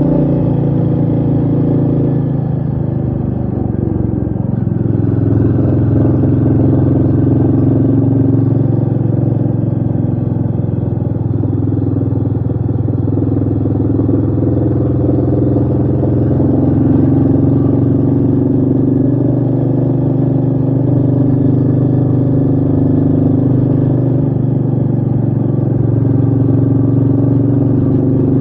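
Royal Enfield Meteor 350's 349 cc single-cylinder engine running on the move at a fairly steady throttle, the engine note easing briefly about three seconds in before settling again.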